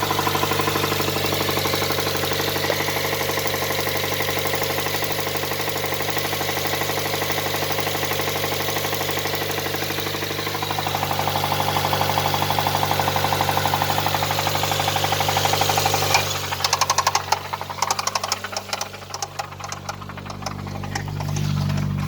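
Nissan R'nessa engine running with a rapid, steady knock from spun crankshaft bearings. About three-quarters of the way through the sound changes abruptly, turning uneven with separate sharp knocks and quieter gaps, before a steadier low hum builds back near the end.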